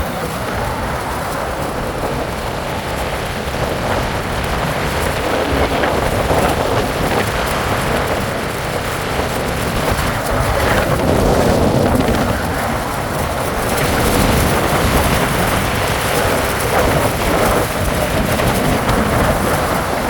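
Wind rushing over the microphone, mixed with steady road and vehicle noise from a moving ride; it swells and eases without break.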